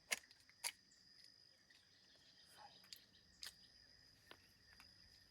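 Quiet outdoor ambience: a steady, high-pitched insect drone, with a few short sharp clicks, two near the start and one about three and a half seconds in.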